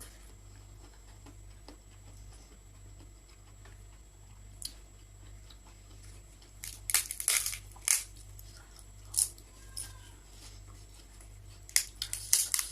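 Crisp crunching of prawn chips being bitten and chewed, in short clusters of sharp cracks from about halfway through, with another burst near the end. A faint steady hum lies underneath.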